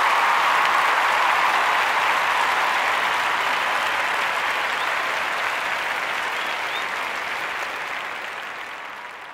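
Audience applauding, a dense even clapping that fades out steadily over the last few seconds.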